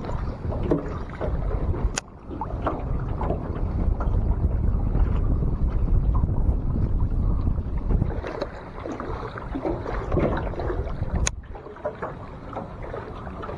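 Strong wind buffeting the microphone, a low rumble that rises and falls, with two sharp clicks, about two seconds in and again about eleven seconds in.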